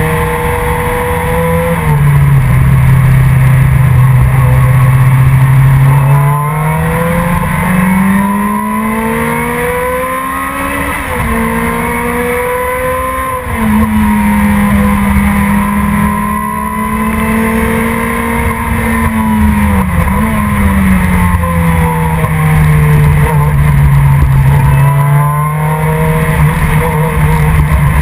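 Production sports car's engine at racing speed, its pitch climbing and falling as the car speeds up and brakes, with quick steps in pitch at gear changes, about a third of the way in and near the middle.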